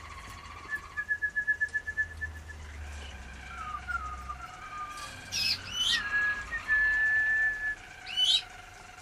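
Domestic canaries singing: a fast trill on one note early on gives way to short falling notes, quick upward-sweeping chirps, and a long steady whistled note.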